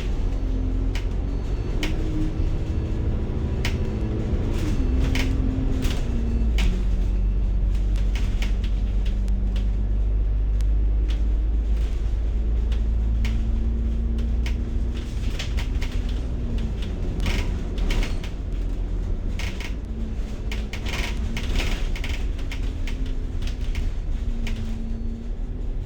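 Inside a moving bus: a steady low engine rumble with an engine note that steps down and shifts in pitch several times as the bus changes speed, with frequent rattles and clicks from the cabin.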